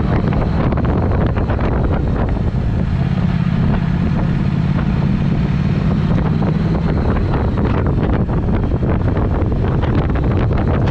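Triumph Speed Twin parallel-twin engine running through a Vance & Hines exhaust while riding at a steady pace, with wind buffeting the microphone. The engine note holds steady and eases slightly past the middle.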